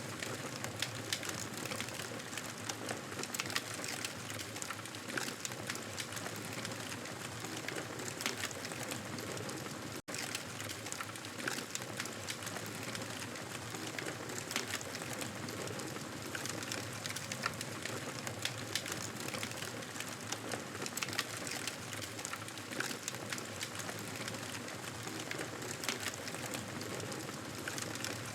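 Campfire crackling: a steady hiss dotted with many small sharp crackles. The sound cuts out for an instant about ten seconds in.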